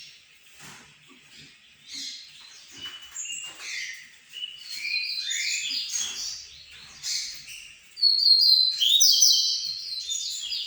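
Male yellow-bellied seedeater (baiano) singing: quick runs of high whistled and chirping notes. The song is softer in the first few seconds and loudest near the end.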